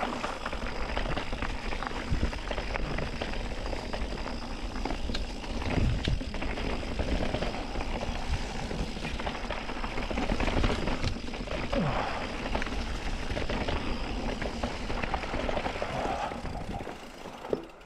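Mountain bike rolling over rough, rocky singletrack: tyre and trail noise with frequent clicks and rattles from the bike. The noise dies down near the end.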